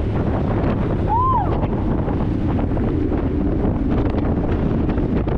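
Heavy wind buffeting on the microphone of a moving dirt bike rider, a dense low rumble throughout. A short rising-and-falling tone sounds about a second in.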